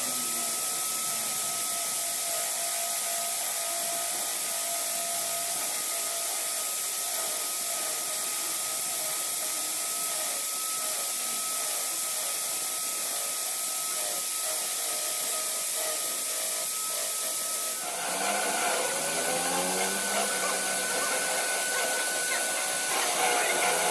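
Steady abrasive rubbing, like sanding or grinding on a workpiece, under a thin steady whine. The sound changes character about 18 seconds in.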